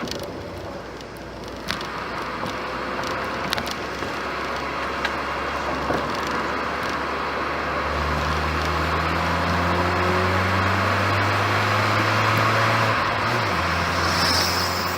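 2008 Ford Fiesta 1.2 16v four-cylinder engine running through its stock exhaust, with the car under way amid road and tyre noise and a few sharp clicks early on. About halfway through a steady low engine drone sets in and grows louder, shifting in pitch near the end.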